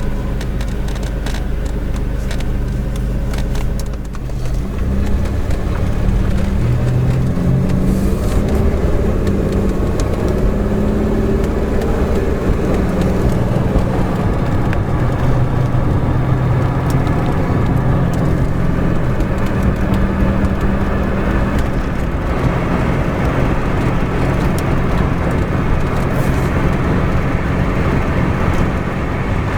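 GM 3800 V6 engine running in a Buick, steady at first; about four seconds in, its pitch rises and keeps shifting as the car gets under way. It is running evenly after repair of its DIS ignition misfire.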